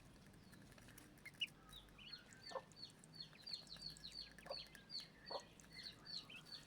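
Newly hatched Muscovy ducklings peeping faintly: many short, high peeps that fall in pitch, coming quicker after about three seconds, with a few lower calls mixed in.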